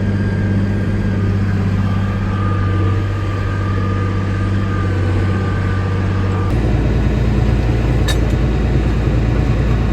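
Tractor's diesel engine running steadily under the operator, with a thin whine over it that ends about six and a half seconds in, where the engine note shifts lower.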